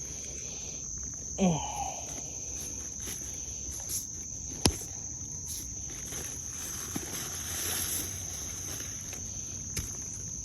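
Steady high-pitched insect trilling. A short voice sound comes about a second and a half in, and a single sharp click about halfway through.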